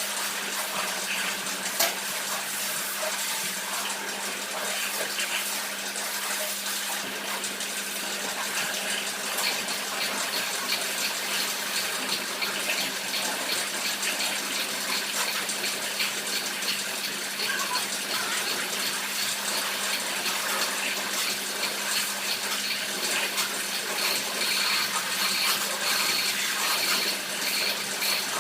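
Water spraying steadily at a car wash over the steady hum of a water pump, with a single short click about two seconds in.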